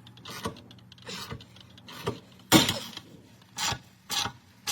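A series of short scraping strokes from hand work on the car's rear suspension, irregularly spaced about half a second to a second apart. The loudest stroke comes about two and a half seconds in.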